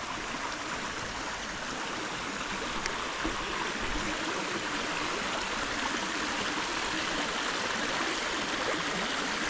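Steady rush of running water, an even hiss-like wash that grows slightly louder over the few seconds.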